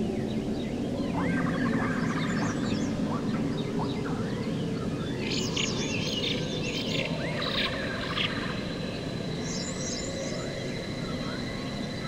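Several birds chirping and calling in quick short phrases over a steady low background rush. A thin, steady high tone joins a little past halfway.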